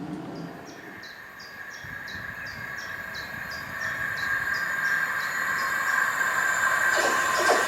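An approaching Southeastern electric multiple-unit train: a steady high whine from the rails grows louder as it nears. A rapid series of short, high falling chirps, about three a second, runs over the first six seconds.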